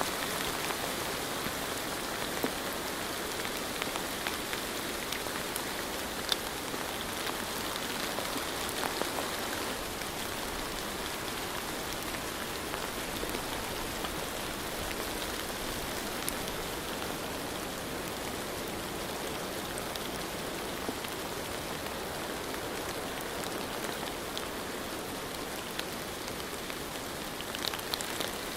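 Steady rain falling, with a dense even hiss and scattered individual drops ticking on a hard surface.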